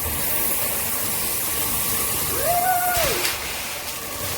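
Water spraying from a handheld shower head, a steady hiss. About three seconds in there is a click, and after it the spray is quieter.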